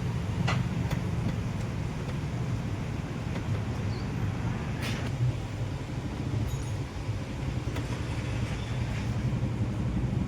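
Maruti Alto 800's three-cylinder petrol engine running steadily at idle, with a few short clicks over it.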